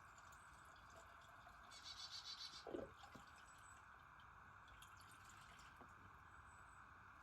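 Near silence: faint steady background hiss, with a brief faint rapid ticking trill about two seconds in and a short faint squeak near three seconds.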